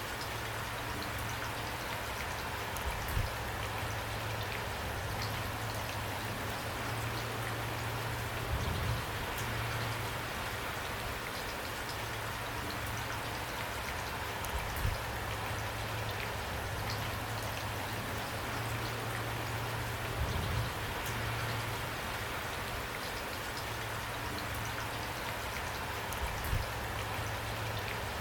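Steady rain falling, an even hiss of drops on a surface, broken five times by a brief low thud.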